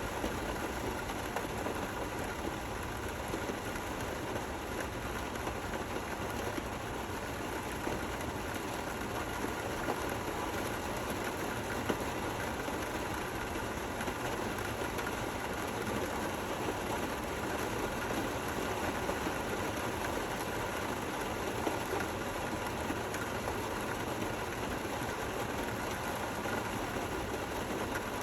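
Gentle rain falling steadily, an even hiss with no thunder or music.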